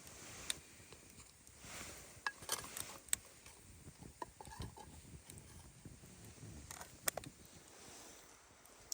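Wood campfire crackling: scattered sharp pops a second or more apart over a soft, irregular rustle.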